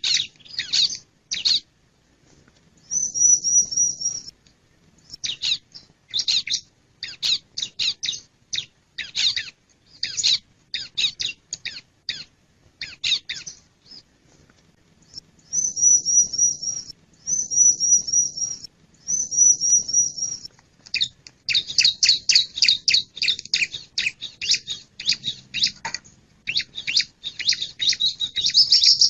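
Male bar-winged prinia (ciblek) calling: fast series of sharp, high chips in clusters, broken by short buzzy trills, three of them in a row about halfway through, and a denser run of chips near the end.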